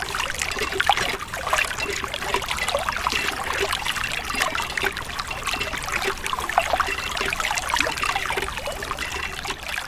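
A thin stream of water from a miniature tubewell pipe trickling and splashing into a small model pond as it fills. It is a steady spattering with many small drips and splashes throughout.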